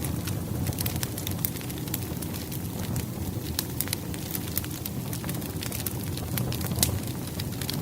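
Firewood burning in a fireplace: a steady low rush of flames with frequent sharp crackles and pops, one louder pop near the end.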